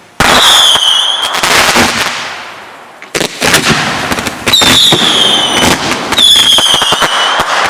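Consumer fireworks going off: a sharp bang just after the start trails into crackling, and another burst comes about three seconds in. From about halfway, rapid cracks and bangs mix with several shrill whistles that dip slightly in pitch.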